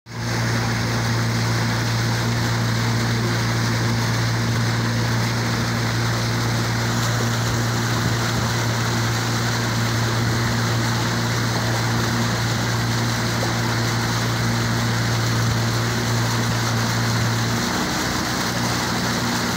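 An engine running steadily at an even speed with a deep hum, over a wide rushing noise like fast-flowing floodwater. The hum shifts slightly near the end.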